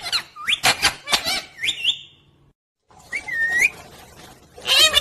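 Pet talking parrot calling: a quick run of short, sharp squawks with sliding pitch, a brief pause, then one whistled call and a loud squawk near the end.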